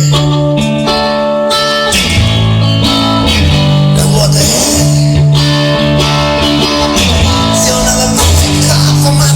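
Instrumental break in a song: guitar over a moving bass line with a steady beat, no singing.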